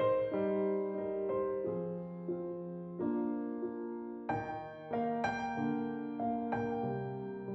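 Background piano music, gentle and slow, with chords changing every second or so.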